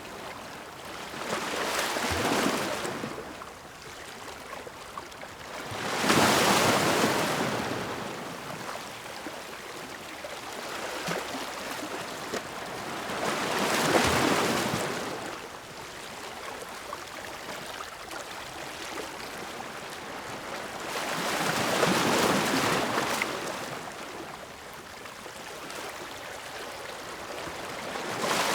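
Ocean waves breaking and washing in: five surges of surf, several seconds apart, each swelling up and fading away, with a steady hiss of water between them.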